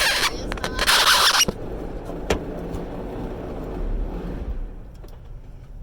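A truck's engine running, with two loud bursts of hissing noise in the first second and a half; the engine sound drops away after about four and a half seconds.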